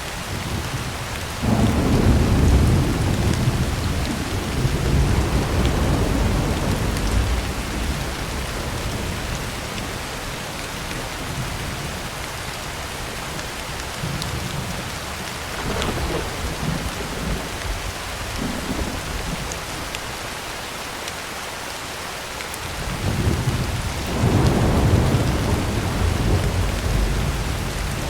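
Heavy rain drumming steadily on a tin roof, with thunder rolling over it: a long rumble starting about a second and a half in, weaker rumbles in the middle, and another strong roll near the end.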